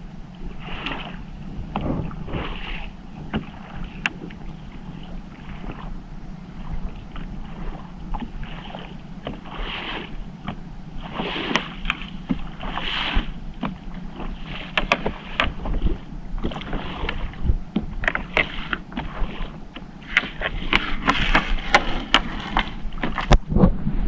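Small fishing boat's engine running steadily, under repeated short swishing sounds about once a second and scattered clicks and knocks that grow busier near the end.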